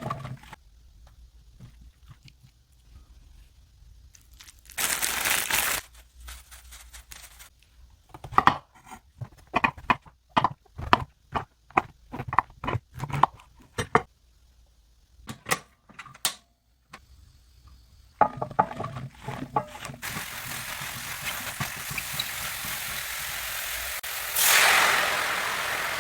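A brief rustle about five seconds in, then a knife cutting king oyster mushrooms on a cutting board in quick, irregular strokes. After about twenty seconds, mushrooms frying in a hot pan give a steady sizzle that swells briefly near the end.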